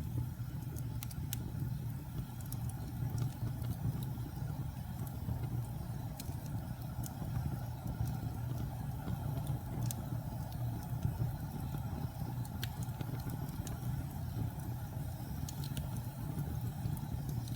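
Wood fire burning in a fireplace: a steady low rumble of flames with scattered sharp crackles and pops every second or few.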